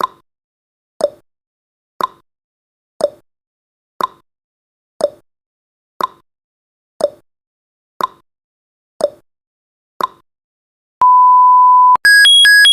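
Countdown timer sound effect: a clock ticking once a second, tick and tock alternating in pitch. At zero, about eleven seconds in, it gives one steady beep about a second long, then a fast electronic alarm of changing high-pitched tones.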